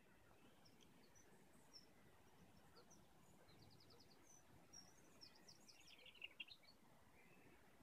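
Faint outdoor birdsong: scattered short high chirps and two brief rapid trills, over a low steady hiss of open air.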